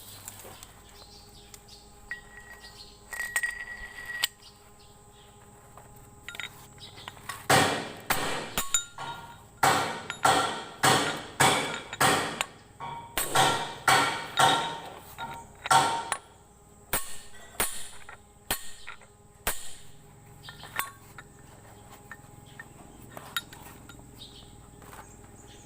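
Hammer striking metal repeatedly, about two ringing blows a second for some eight seconds, with lighter scattered knocks and clinks before and after.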